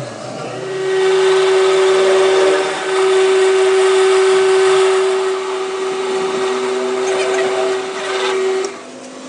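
A power tool or workshop machine running under load with a steady whine over a noisy hiss, stopping abruptly near the end.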